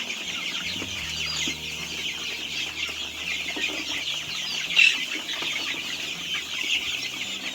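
A large flock of young chicks peeping continuously in a dense, overlapping chorus while they feed, with one louder peep about five seconds in.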